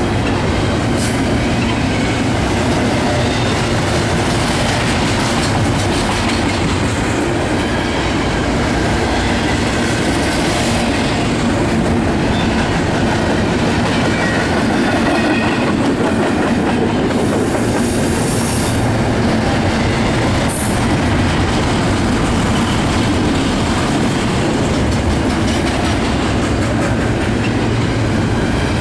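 Freight train's cars rolling past, a steady heavy rumble and rattle of steel wheels over the rail, with a few brief high-pitched wheel squeals now and then.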